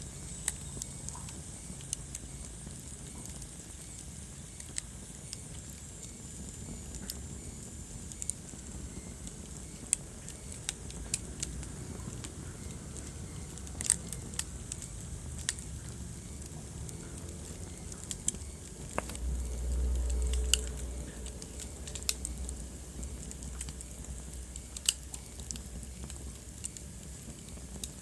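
Wood fire burning in a fireplace: irregular sharp crackles and pops over a low rumble of flames. The rumble swells briefly about two-thirds of the way through.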